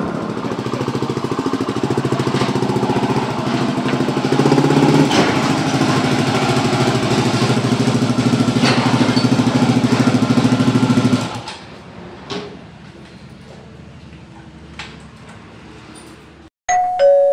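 Yamaha WR250X single-cylinder four-stroke engine running through an FMF Power Bomb header and Q4 silencer, a steady pulsing exhaust note that grows louder about four seconds in. About eleven seconds in it drops to a much quieter steady running, and a short two-tone beep sounds near the end.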